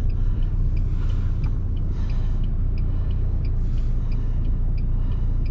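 UAZ Patriot's engine running steadily at low revs, a continuous low rumble, with a faint regular ticking about twice a second.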